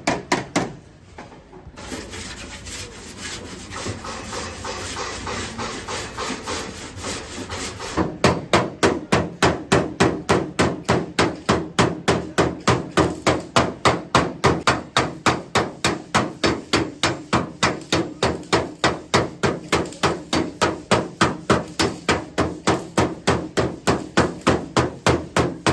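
A hand hammer beating metal car bodywork in a long, steady run of sharp blows, about three to four a second, as a damaged panel is worked back into shape. Before the run there is a quieter stretch of rough rubbing or scraping.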